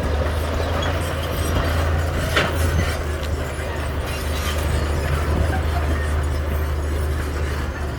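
Heavy diesel construction machinery running steadily, with a deep engine drone and a rattling metallic clatter over it, and one sharp knock about two and a half seconds in.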